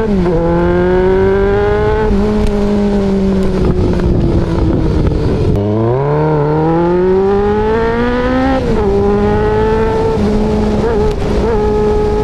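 Kawasaki ZX-11 (ZZR1100) inline-four with an aftermarket Tritech Racing Evolution exhaust, heard from on the bike under hard acceleration. The engine note climbs and drops back at the shifts, about 2 s in and again near 9 s. Around 5 to 6 s in it drops right off and builds again, then holds steady near the end.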